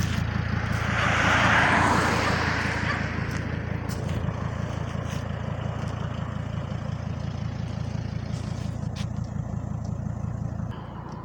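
Mercedes van's 3-litre five-cylinder turbo diesel engine idling with a steady, fast, even pulse. A rushing hiss swells and fades in the first few seconds, and the engine sound falls away near the end.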